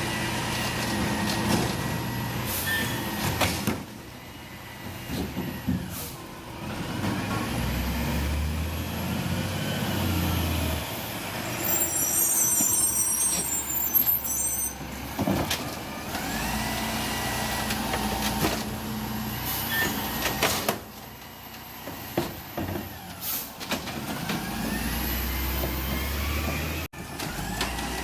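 City recycling truck at work: its diesel engine runs and revs, with whines that rise and fall in pitch, an air-brake hiss about twelve seconds in, and several sharp knocks.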